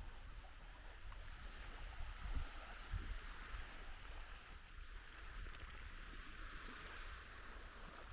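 Wind gusting on the microphone over a steady wash of surf on the shore.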